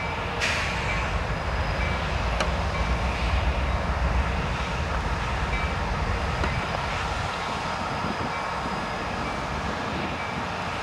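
Freight train rolling through a rail yard: a steady low rumble that is heaviest for the first six seconds or so and then eases, with a couple of sharp metallic clicks early on.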